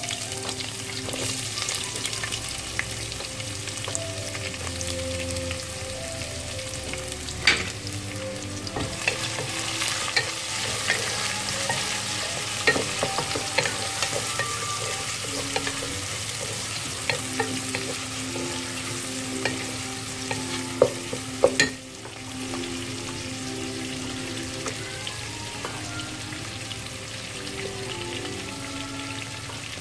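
Sliced onions sizzling as they fry in hot oil with whole spices and curry leaves in a cooking pot, a steady hiss, while a spoon stirring them knocks against the pot now and then, most sharply about 7 seconds in and twice around 21 seconds.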